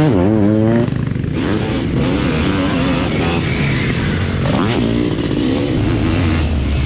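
700cc two-stroke Zabel sidecarcross engine revving hard: the pitch climbs sharply and wavers at the start and again about four and a half seconds in, with steady running in between.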